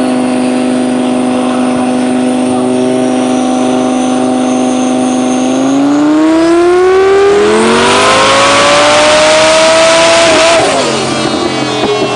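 Lamborghini Gallardo V10 running on a chassis dyno in a full-throttle pull. The engine holds a steady note for about five seconds, then revs up with its pitch climbing and getting louder. It drops off sharply about ten and a half seconds in as the throttle closes.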